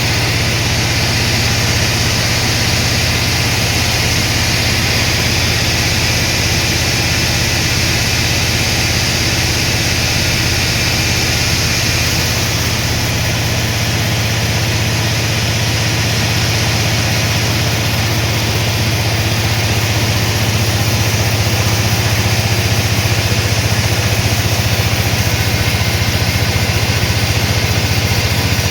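Sawmill machinery running, a steady engine-driven drone with a constant low hum and a broad hiss above it, getting a little louder about two-thirds of the way through.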